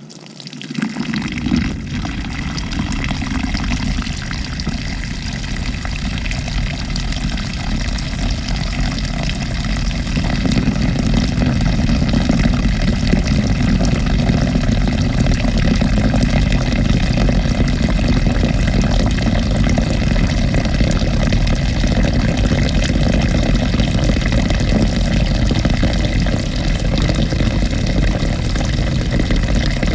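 Water running into the tub of a 2018 GE GTW220ACKWW top-load washer as the wash cycle starts to fill, heard from inside the tub. The sound starts about a second in, grows louder over the first ten seconds, then holds steady.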